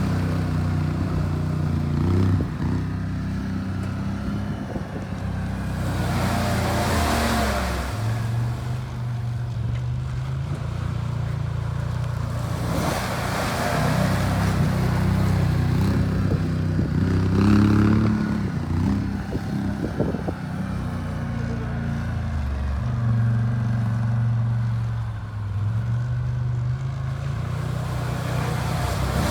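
Pickup truck engine revving up and dropping back again and again as the truck, stuck in deep mud, is rocked back and forth to break free, with surges of noise from the mud tires spinning.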